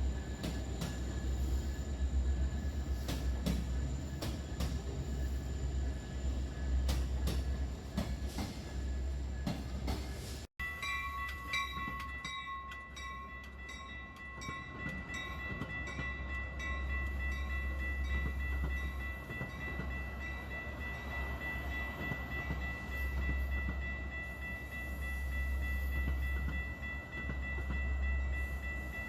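Train running past, with a rumble and rapid clicks from the wheels. After a sudden cut about ten seconds in, a steady high whine holds over the rumble.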